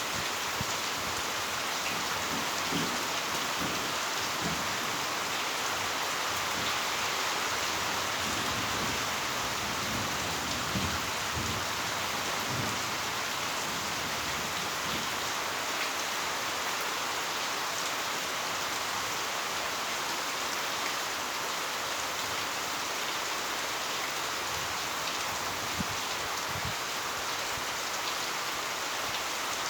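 Heavy rain pouring steadily, with low rumbles of thunder in the first half.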